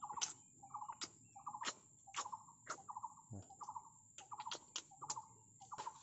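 Baby bird chirping in short calls, about two a second, each a quick rapid-pulsed cheep, with soft clicks in between.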